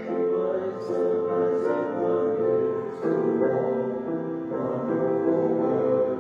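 Slow keyboard music, led by a piano, playing held chords that change about every second.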